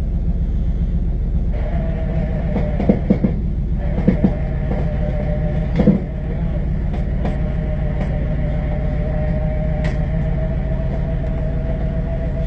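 A vehicle engine running steadily with a loud low drone and a steady whine over it, with a few short clanks about three, four and six seconds in.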